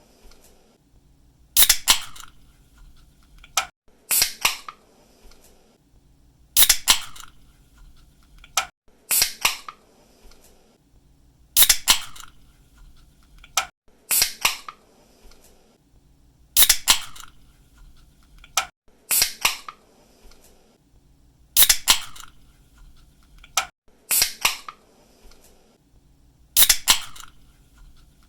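Aluminium drink can being opened over and over: the sharp snap of the pull-tab cracking the seal, followed by a short burst of fizzing hiss. It repeats evenly, about once every two and a half seconds, roughly eleven times.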